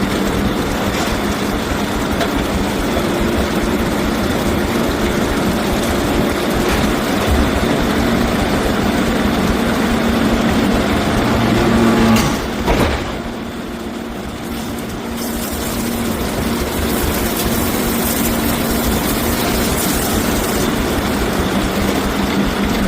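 Heavy machinery running with a loud, steady mechanical din and a low hum. It dips for a couple of seconds about 13 seconds in, then picks up again.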